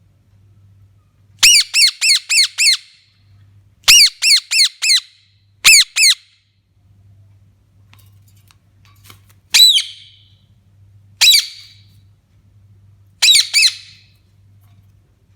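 Pet parrot squawking loudly in bursts: quick runs of five or six calls, a pair, then single calls a couple of seconds apart, and a last short run near the end.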